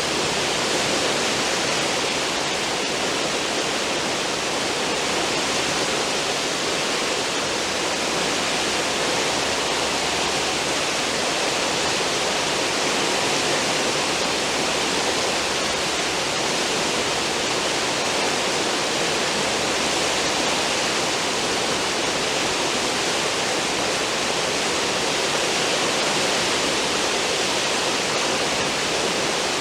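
Cruise ship's wake churning astern: a steady, unbroken rush of foaming water.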